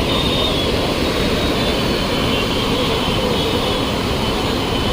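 Steady roar of the flooded Ganges rushing fast and high below the bridge.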